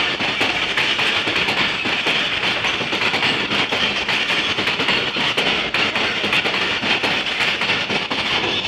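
Passenger coaches of an express train rushing past at close range at about 65 km/h: a loud, steady rush of wheel and rail noise with repeated clicks of the wheels passing over rail joints.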